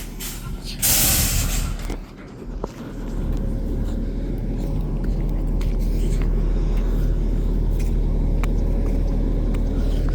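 Garbage truck's air brakes releasing with a short, loud hiss about a second in, then its engine running with a steady low drone that grows louder and holds.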